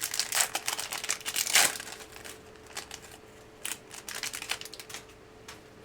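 Crinkling and rustling of a trading-card pack's wrapper and the cards inside being handled, with rapid crackles for the first two seconds, then sparser clicks and rustles.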